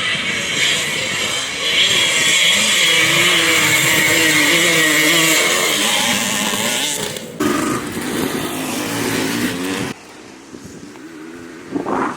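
Vintage motocross bikes racing on a dirt track, engines running hard with pitch wavering up and down as riders work the throttle. The sound changes abruptly about seven seconds in and drops quieter about ten seconds in.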